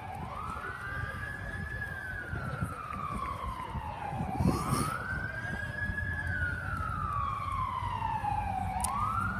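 Fire truck siren wailing, each cycle rising quickly and then falling slowly over about four seconds, repeating about every four and a half seconds, over a low rumble. A short thump about halfway through stands out as the loudest moment.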